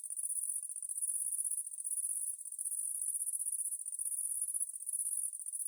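Crickets chirping in a continuous, very high-pitched pulsing trill that dips briefly about once a second.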